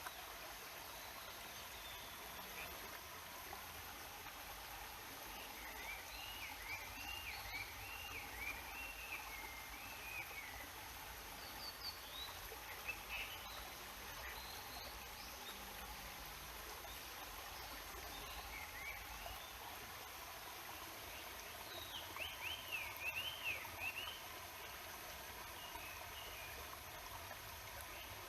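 Steady murmur of a flowing mountain river, with a bird singing quick warbling phrases over it, once about a quarter of the way in and again about three quarters in, and a few short chirps in between.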